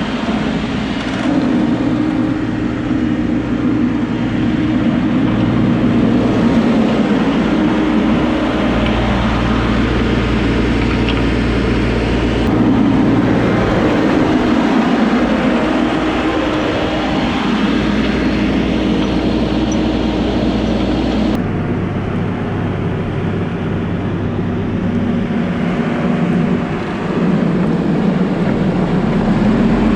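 Heavy diesel machinery of railway track-repair work running steadily with a low engine hum; the sound changes abruptly about two-thirds of the way through, as at a cut to another machine or shot.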